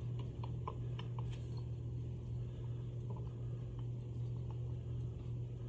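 A steady low hum with faint, scattered light clicks and taps from small parts and screws being handled while they are fitted to a tape-machine motor.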